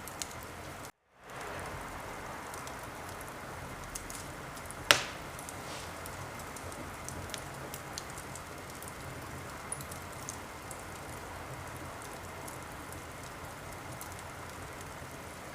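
Wood fire crackling, a steady hiss with scattered small pops and one loud, sharp pop about five seconds in. About a second in the sound cuts out completely for a moment, then fades back in.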